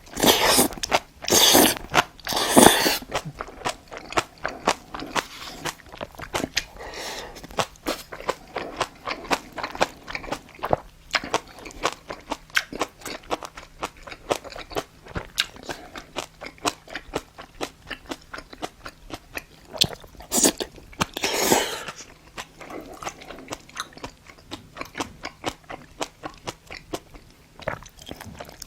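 Close-miked chewing and eating sounds of a person eating spicy braised monkfish: rapid wet mouth clicks and crunches. There are a few longer hissing bursts near the start and about two-thirds of the way through.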